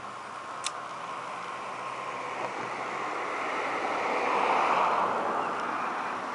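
A car passing on the road: its tyre and engine noise swells to a peak about four to five seconds in, then fades. A brief sharp tick comes early on.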